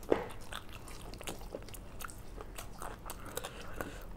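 Close-up mouth sounds of two people chewing mouthfuls of fried rice and chicken: a quick run of wet smacks and small crunches, with one sharper, louder smack just after the start.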